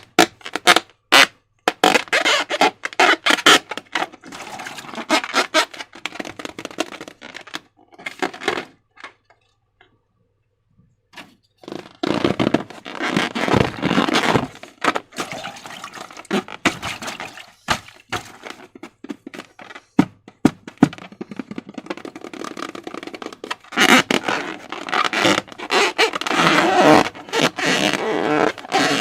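Slime being squished and worked by hand, a dense run of wet clicks and crackles. It stops for a few seconds about nine seconds in, then starts again.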